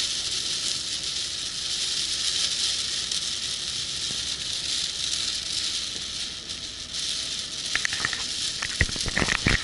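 Heavy rain on a moving car, a steady hiss, with a cluster of sharp knocks in the last two seconds.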